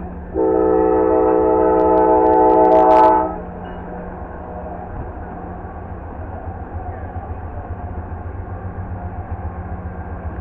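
Diesel locomotive air horn sounds one long blast, several notes at once, for about three seconds, then cuts off sharply. Under it and after it runs the low, steady rumble and hum of the train.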